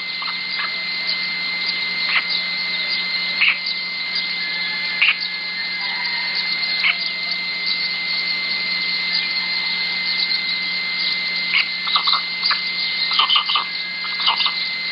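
Steady ambient background with a constant high-pitched tone over a low hum, and short chirps or clicks scattered through it, thickest near the end.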